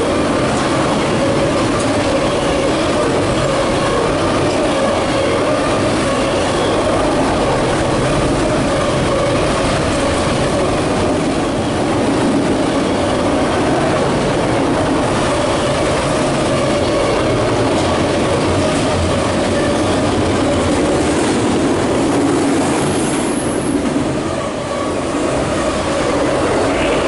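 Autorack freight cars of a long train rolling past on the rails: a steady loud rumble of wheels on track with a sustained high whine held over it.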